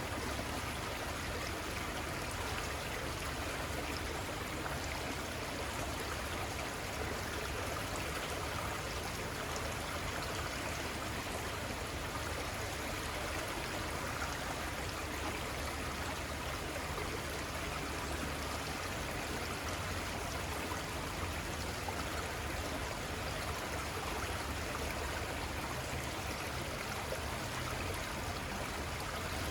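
River water flowing steadily over rocks, an even rushing and burbling that holds level throughout.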